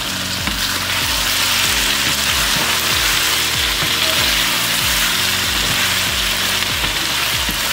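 Chicken pieces and sliced onions sizzling in hot oil in a pan, stirred with a wooden spatula. Soft background music with a steady bass line runs underneath.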